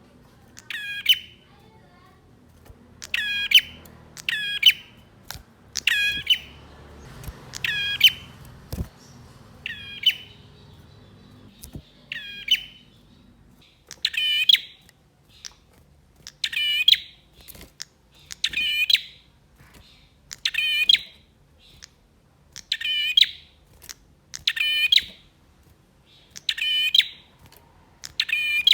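Male prinia (prenjak) singing: short, sharp, high calls repeated about every one to two seconds, with a brief pause around the middle.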